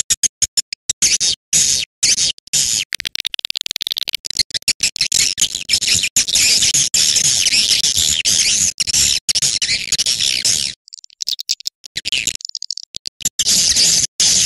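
Dense, high-pitched twittering of swiftlets, a recorded swiftlet lure call of the kind played to draw swiftlets to a nesting house. The chatter is chopped by many abrupt short gaps, breaks off about eleven seconds in, and starts again near the end.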